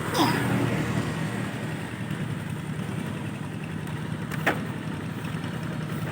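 Rice-field tractor engine running steadily at idle, with a brief sharp sound that falls in pitch just after the start and a single click about four and a half seconds in.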